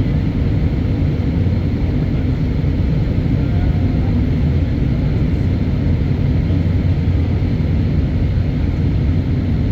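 Airbus A319 jet noise: a steady low rumble that stays even throughout, with no change in pitch or level.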